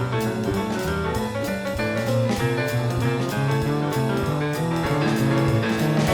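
Instrumental jazz band playing at a steady tempo, with pitched instruments over a drum kit keeping an even beat.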